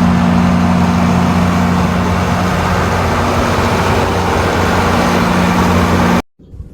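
A heavy vehicle engine running steadily, a low hum under a loud rushing noise, cut off abruptly near the end.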